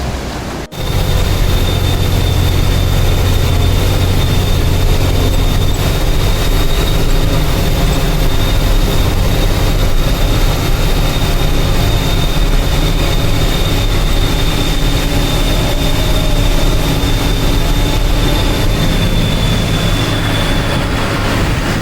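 Truck engine running steadily while the truck is under way, with a thin steady high whine above it. The sound drops out briefly less than a second in.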